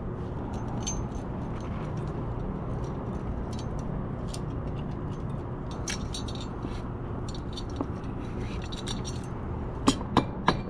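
Small metal engine parts and tools clinking and ticking as they are handled during a pit bike top-end rebuild. A few sharper metallic clinks come near the end, over a steady low background hum.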